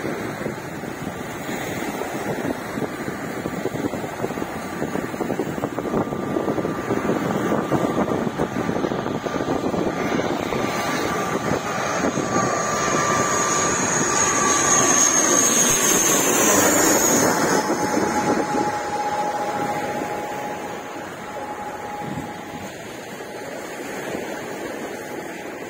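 An engine passing by, its whine growing louder and then dropping in pitch as it goes past, over the steady wash of surf.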